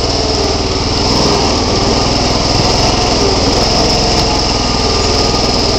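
Bolens garden tractor's small engine running steadily under load while the tractor's wheels slip for traction.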